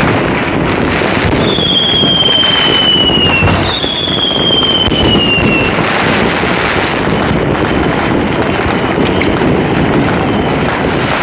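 Many fireworks going off at once: dense, continuous cracking and banging. In the first half, two long whistles fall in pitch, one after the other.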